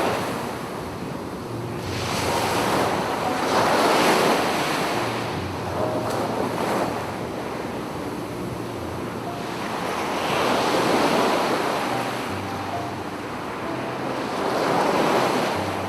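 Sea waves breaking and washing up a beach, coming in slow surges a few seconds apart.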